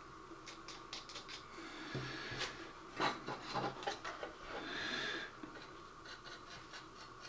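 Quiet handling of small weathering-powder pots and a brush: scattered light clicks and taps, a sharper click about three seconds in, and a short soft scratchy brushing sound a little after the middle.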